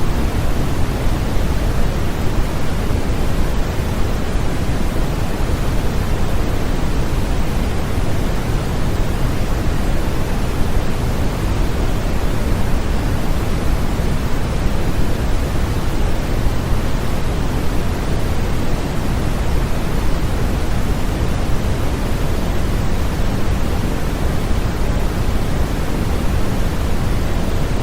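Continuous white noise for infant sleep: a steady, even hiss with no changes, its weight in the low end so it sounds deep and soft rather than sharp.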